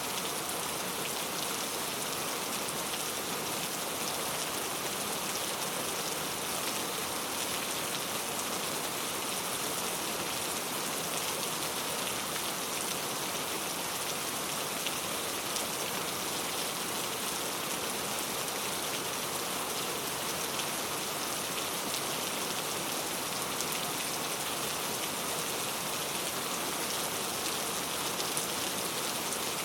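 Steady heavy rain falling, an even hiss with fine scattered drop patters.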